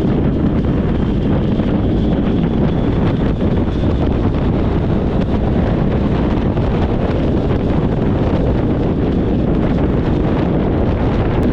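Steady, loud wind buffeting on the microphone of a moving motorcycle, with the rumble of the bike and the road underneath it.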